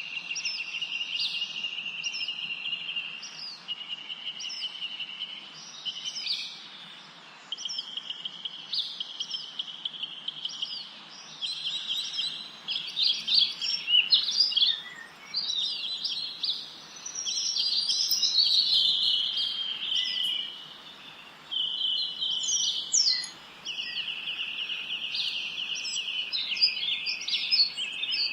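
Several songbirds singing together: long rapid trills held at one pitch, overlapped by many short, quickly repeated down-slurred chirps, busiest in the middle and dropping out briefly a few times.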